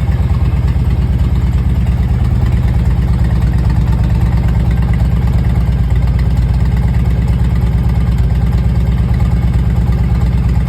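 2001 Harley-Davidson Road King Classic's air-cooled Twin Cam 88 V-twin idling steadily with an even, low pulsing note, warming up on its first start after sitting four months.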